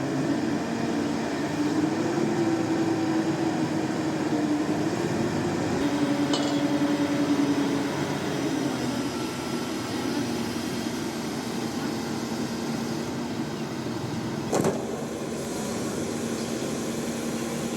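Heavy machine engine running steadily. Its note rises about two seconds in, holds for several seconds, then settles back, and there is a single sharp metallic knock near the end.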